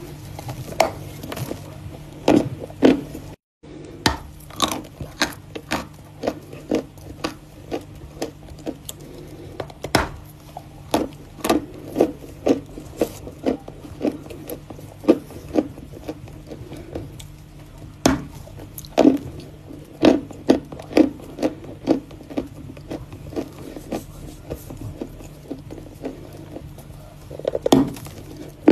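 Close-miked biting and chewing of Volokonovka natural chalk: crisp, irregular crunches about one or two a second, over a steady low hum. The sound cuts out completely for a moment about three seconds in.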